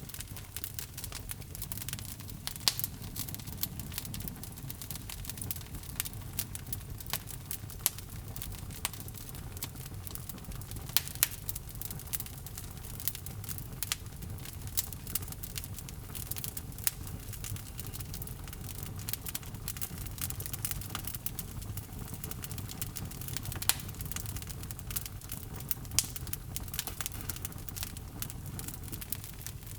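Wood logs burning in a fireplace: a steady low rumble of flames with frequent irregular crackles and occasional louder pops.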